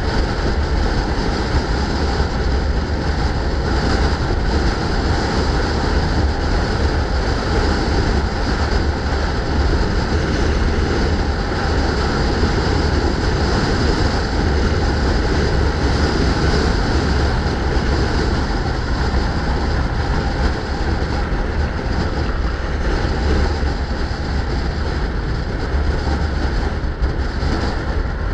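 Steady, loud rush of wind buffeting the microphone with a deep rumble, as heard from a moving bike.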